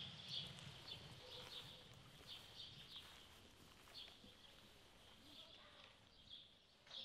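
Faint outdoor ambience with small birds chirping repeatedly in short high notes.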